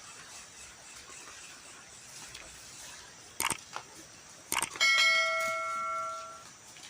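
A few sharp clicks, then one bell-like metallic ring that starts about five seconds in and fades away over about a second and a half.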